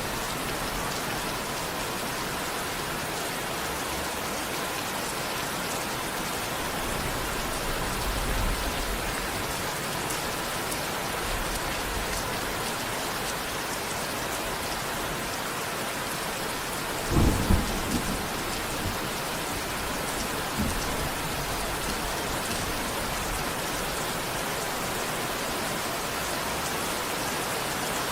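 Steady rain falling, an even hiss throughout, with a brief low rumble of thunder about two-thirds of the way through.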